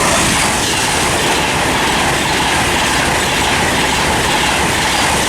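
A Virgin Trains Class 390 Pendolino electric train passing through the station without stopping: a loud, steady rush of wheels on rail and air.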